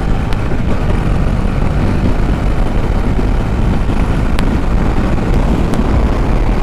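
Bajaj Dominar 400's single-cylinder engine running at highway speed, around 130–140 km/h, under a steady heavy rush of wind noise.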